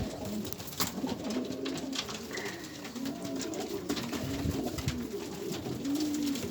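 Racing pigeons cooing in a loft: several birds' low, rising-and-falling coos overlapping one after another, with scattered light clicks and rustles.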